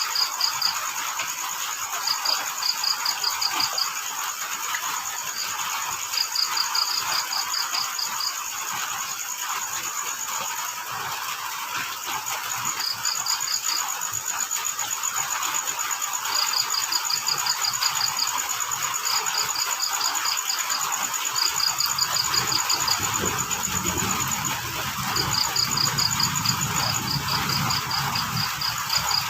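Crickets chirping: one gives groups of rapid short pulses again and again, over another insect's continuous high trill, with a steady hiss of rain underneath. A low rumble comes in about two-thirds of the way through.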